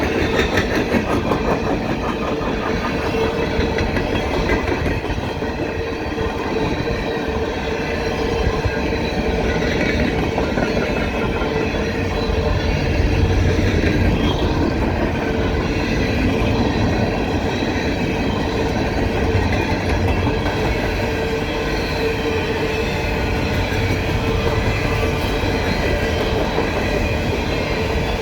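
Empty coal train rolling past, the hopper cars' wheels clicking over rail joints above a continuous rumble. A steady whine runs through it.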